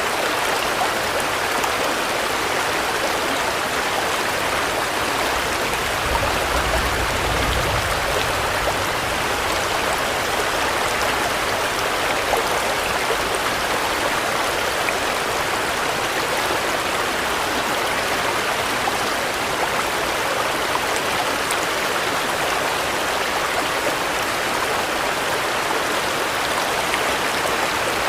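Steady rain falling, an even dense hiss of drops, with a brief low rumble about six seconds in.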